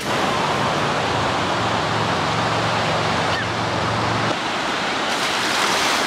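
Ocean surf washing onto the beach: a steady rushing noise. A low steady hum lies underneath for the first four seconds or so, then stops.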